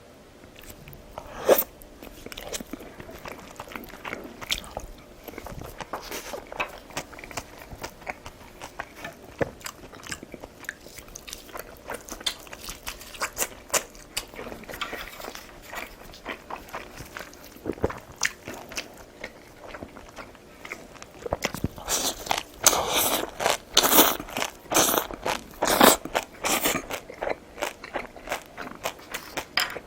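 A person chewing and biting food, wet mouth smacking with crunchy bites and many small sharp clicks; it gets louder and busier for several seconds from about twenty-two seconds in.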